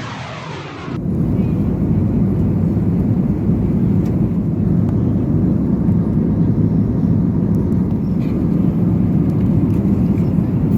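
A sweeping whoosh that cuts off abruptly about a second in, then a steady low engine rumble.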